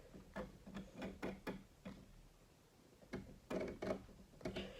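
Plastic Lego Technic parts clicking and knocking as they are handled while a wheel is fitted onto the model: a handful of separate sharp clicks, then a quick cluster of them about three seconds in.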